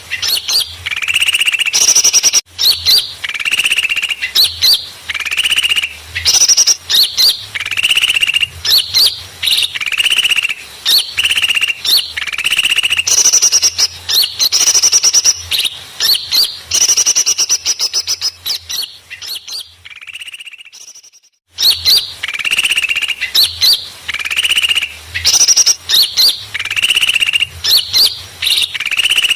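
Recorded lure call of noisy small birds: dense, repeated high chirping and twittering calls, used to draw small birds in for trapping. The calls fade away about two-thirds of the way through and start again about a second later.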